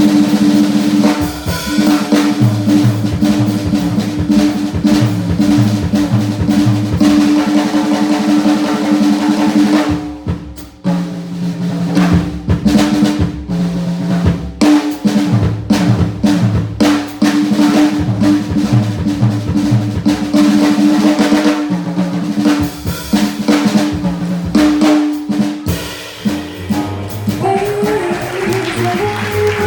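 Jazz drum kit solo: snare rolls and rimshots over bass drum. Near the end the band's pitched instruments come back in.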